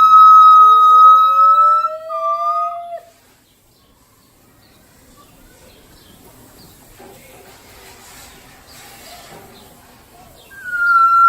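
Gibbons calling: a long, clear, whistle-like hoot held nearly steady, with a second, lower call rising beneath it, both ending about three seconds in. After a quiet stretch, another long hoot starts near the end and slides slowly down in pitch.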